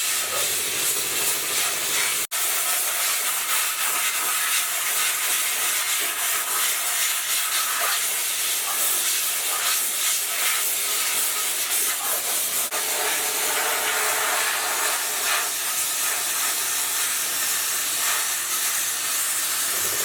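A steady, loud hiss like a jet of air or spray, broken off for an instant about two seconds in.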